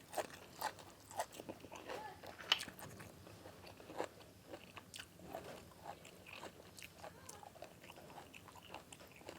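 A person biting and chewing crunchy food close to the microphone: irregular soft crunches and clicks, a few each second.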